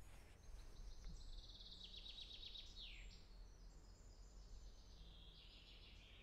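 Faint woodland birdsong: a songbird's quick run of high notes ending in a falling note about three seconds in, then more high calls, over a low steady background hum.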